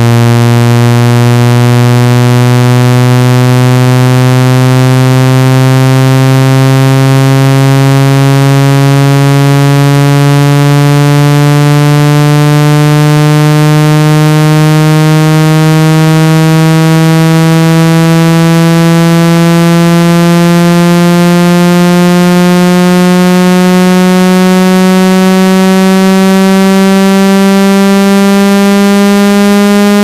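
Synthetic water-ejection tone for clearing water out of a phone or earphone speaker: a loud, buzzy electronic tone rich in overtones, rising slowly and evenly in pitch throughout.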